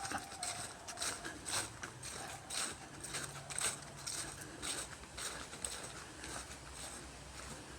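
Footsteps walking through dry fallen leaves, each step a short rustling crunch, about two steps a second at a steady walking pace.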